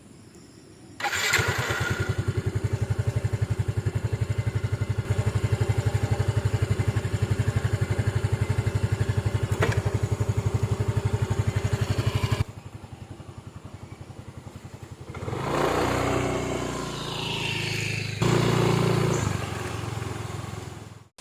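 A small engine running with a fast, even beat from about a second in, dropping off suddenly about twelve seconds in. A louder, shifting engine sound with a rising whine follows near the end.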